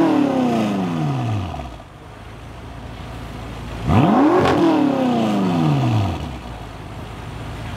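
BMW F10 M5's twin-turbo V8 revved in free rev: the engine falls back from one rev to idle, then about four seconds in is blipped sharply once more and drops back to a steady idle.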